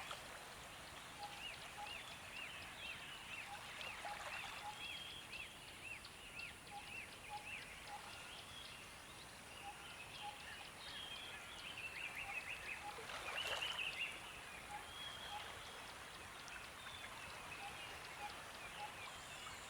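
Faint birdsong from a nature-sound recording: small birds chirping in quick runs of short repeated notes, with softer pips between, over a steady background hiss. A busier burst of calls comes about thirteen seconds in.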